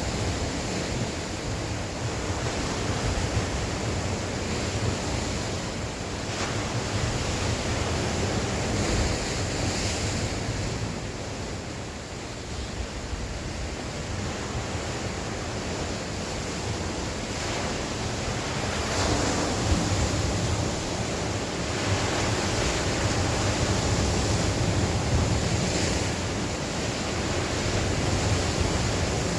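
Sea waves breaking and washing on the shore, swelling and easing every few seconds, with wind blowing and rumbling on the microphone.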